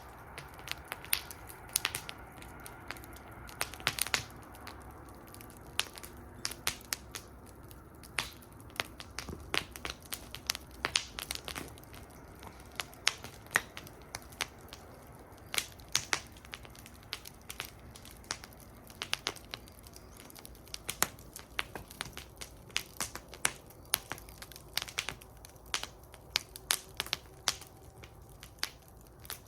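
Wood fire burning in a fire bowl, crackling and popping with many irregular sharp snaps over a low, steady background.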